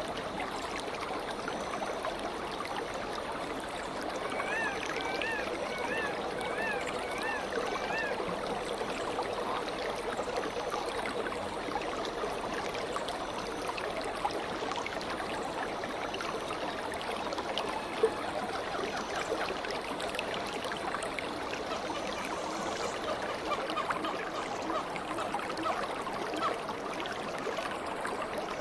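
Stream water flowing and babbling steadily. A bird gives a run of about six short warbling notes from about four to eight seconds in, and a single sharp click sounds about two-thirds of the way through.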